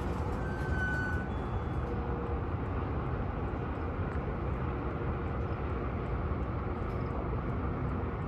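Boxcars of a freight train rolling slowly past: a steady rumble and rattle of wheels on rail, with a faint high squeal that fades out about a second in.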